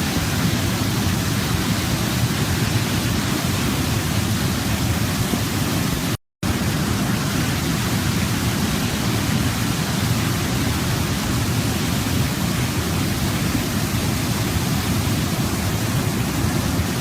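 Waterfall: steady rushing of falling water, cut off briefly for a fraction of a second about six seconds in.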